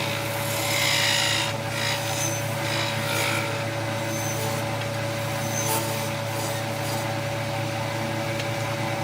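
A hand tool scraping over wood in a few separate strokes, with a steady machine hum underneath.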